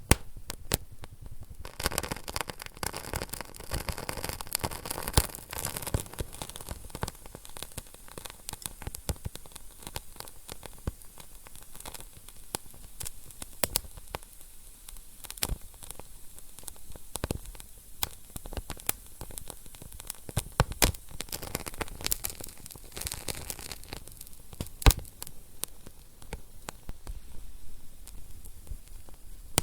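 Wood fire burning in a fireplace: a steady hiss with irregular crackles and sharp pops, busiest in the first few seconds, with a few louder single pops.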